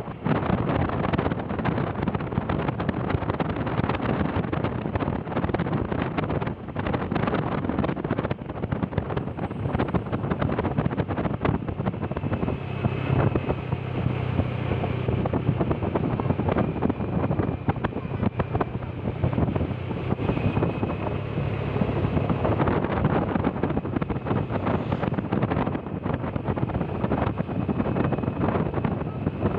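Wind buffeting the microphone on a moving vehicle, with engine and road noise underneath. A faint steady whine and a low hum join about twelve seconds in.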